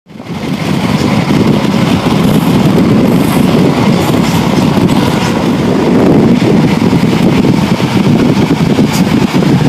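CrossCountry High Speed Train heard from on board while running at speed: a steady, loud rumble of wheels on rail and the moving coach, fading in quickly at the start.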